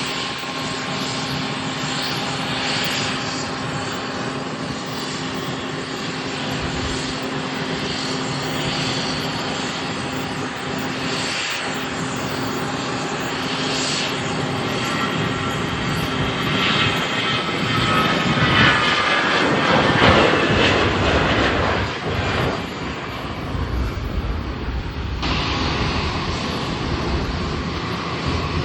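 Airliner engines running as a plane passes close by, loudest about twenty seconds in, with tones sliding down in pitch as it goes past. The sound changes abruptly about 25 seconds in to another stretch of aircraft engine noise.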